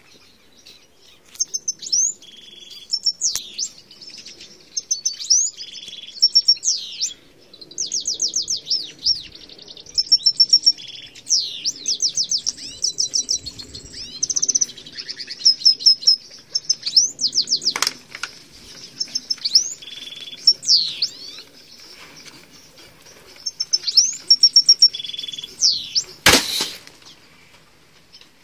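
Songbirds chirping and trilling over and over in short high phrases. One brief loud noise stands out near the end.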